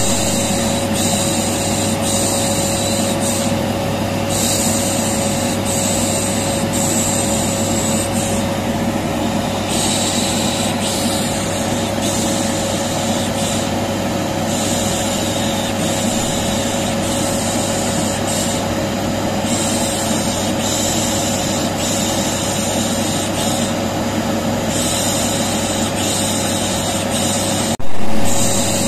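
Vacuum cleaner running steadily with a constant hum, overlaid by repeated long 'pışşş' shushes that come and go every second or two: white-noise shushing of the kind used to soothe a colicky baby. A brief louder burst comes near the end.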